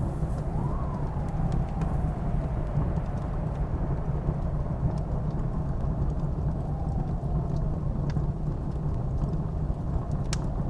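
Blizzard wind blowing in a steady low rumble, with a whistling howl that rises and falls about a second in and again around seven seconds. A wood fire crackles with scattered sharp pops, more of them near the end.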